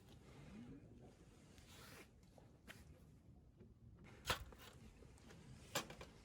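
Near silence with faint rustling, broken by two short sharp clicks about a second and a half apart near the end.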